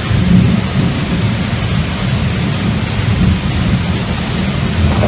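Thunderstorm: steady heavy rain with a continuous low rumble of thunder.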